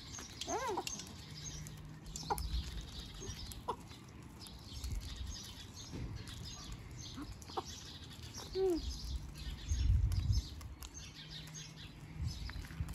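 Small birds chirping and twittering, with a few short animal calls now and then and a brief low rumble about ten seconds in.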